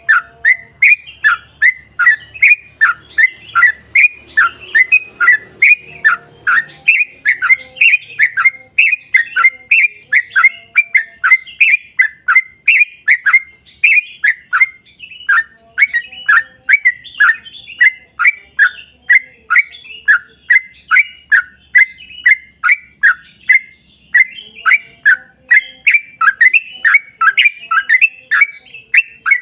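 Yellow-vented bulbul (trucukan) singing a long, unbroken run of short bubbly notes that drop in pitch, about three a second.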